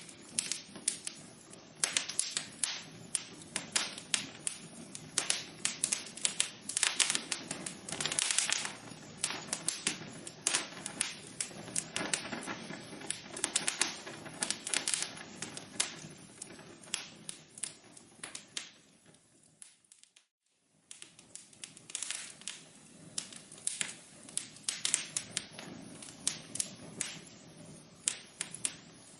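Wood fire crackling in a fireplace, with dense, irregular sharp pops and snaps over a low hiss. About two-thirds through it fades away for a moment, then the crackling comes back.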